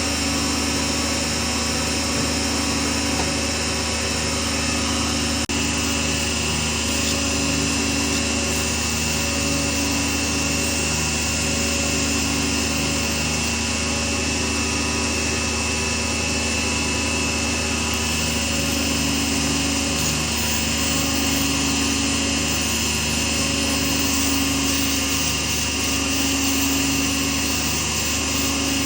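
Small lathe running steadily, its motor hum with a slow, regular pulsing.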